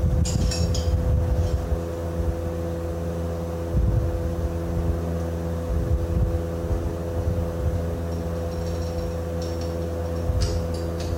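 A motor running steadily with an even hum, with light metallic clinks of tools about a second in and again near the end.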